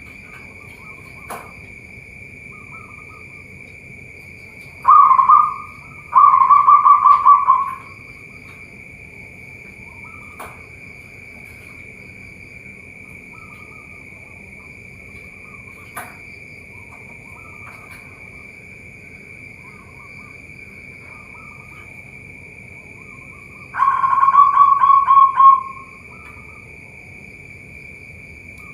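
Zebra doves (perkutut) cooing: a loud rolling coo of quick staccato notes about five seconds in, and again near the end, with softer coos from other doves between. A steady high-pitched drone runs underneath.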